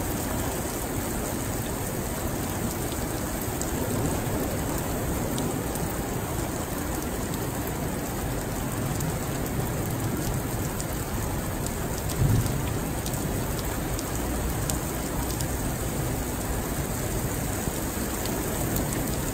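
Heavy rain pouring steadily onto pavement and standing floodwater, a continuous hiss with scattered drop ticks. There is a brief low thump about twelve seconds in.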